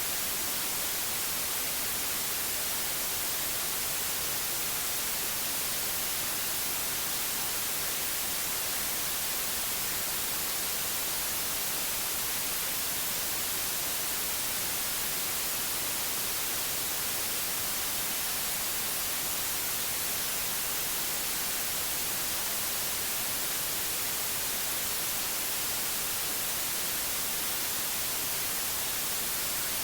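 Steady white noise: an even, unchanging hiss, brightest in the high pitches.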